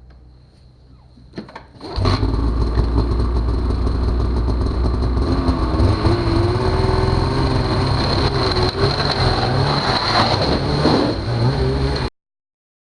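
Polaris 850 SKS snowmobile engine running loud, coming in suddenly about two seconds in with its pitch wavering as the throttle shifts, then cut off abruptly near the end.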